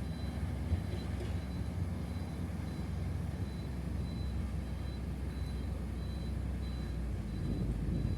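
Heavy diesel engine of earthmoving equipment (dump truck or bulldozer) running steadily at a low, even pitch.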